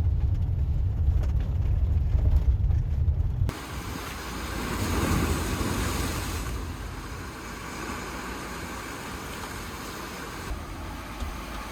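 Wind buffeting the microphone as a heavy low rumble. About three and a half seconds in it cuts to a steady, noisy wash of sea surf and wind.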